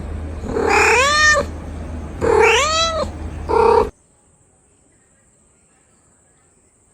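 Kitten meowing: two long meows that rise and fall in pitch, then a short third one, after which the sound cuts off abruptly about four seconds in.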